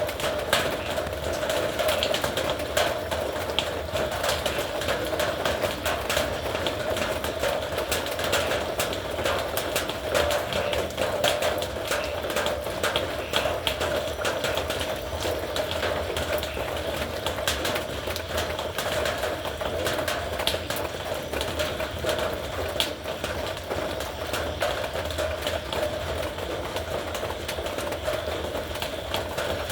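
Heavy rain drumming on a metal roof: a dense, irregular patter of drops striking the sheet metal, steady throughout, with a low rumble underneath.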